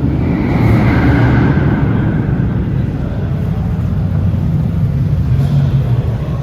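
A car engine running close by with a low, steady exhaust rumble, swelling louder about a second in.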